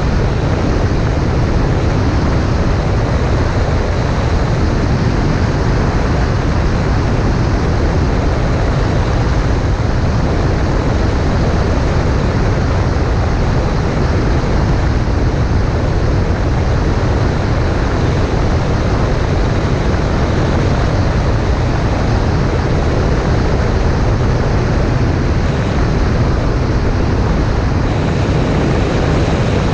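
Cessna 140A light airplane in flight: the propeller engine runs steadily under a heavy rush of airflow noise, with no change in power.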